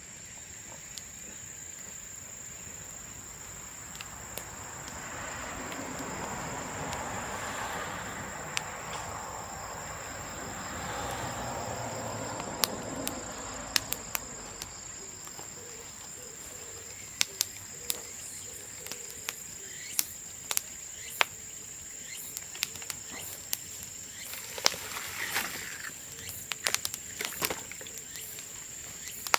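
Bamboo burning on a bonfire: a scatter of sharp cracks and pops, most frequent in the second half, over a steady high insect drone. A soft rushing sound swells and fades in the first half.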